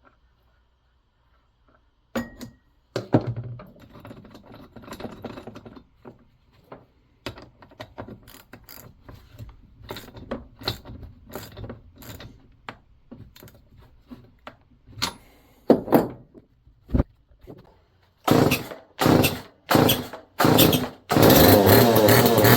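Clicks and knocks of tools and parts being handled, then an old STIHL 019 two-stroke chainsaw pull-started: four quick pulls about 0.7 s apart, then the engine fires and runs on fuel primed into the cylinder. It only runs on such priming, which the mechanic takes for a fuel problem or a massive air leak.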